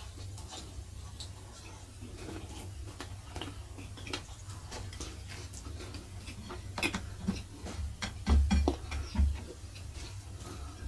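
Close-up chewing and mouth clicks from someone eating fried spleen and rice by hand: many small clicks throughout, with a few louder knocks and low thumps about eight to nine and a half seconds in.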